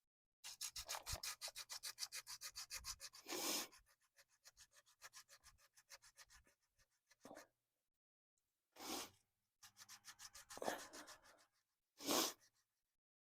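Hand scrubbing of dirt and rust off the truck's ABS sensor mounting: a fast run of rubbing strokes, about nine a second, then a few single longer swipes and a shorter run of strokes near two-thirds of the way through.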